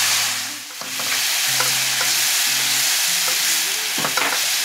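Blended tomato and green chilli paste sizzling loudly in hot oil with fried onions in a nonstick frying pan. A silicone spatula scrapes and stirs through it a few times.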